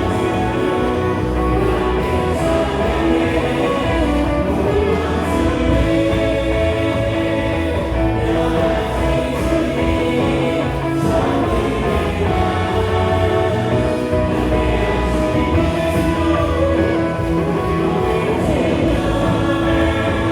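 Live worship band of drums, keyboard, electric guitar and bass guitar playing a contemporary praise song, with a group of singers singing over it.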